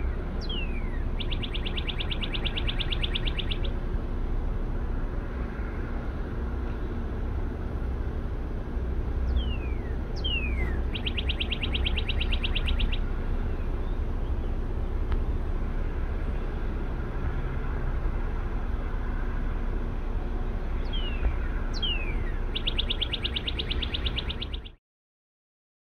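A steady low rumble from a slow-moving Norfolk Southern track-geometry train and its diesel locomotives. Over it a songbird sings the same song three times, two falling whistles then a rapid trill of about two seconds. The sound cuts off abruptly near the end.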